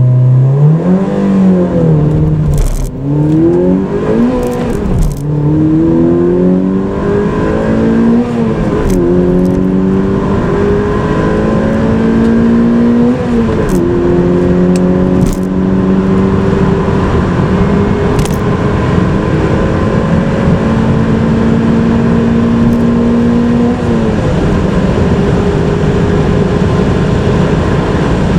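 Mazda NC Roadster's 2.0-litre LF-VE inline-four engine under full-throttle acceleration through its six-speed manual. The engine note climbs steadily in pitch and dips sharply at each of several upshifts, with each higher gear held longer.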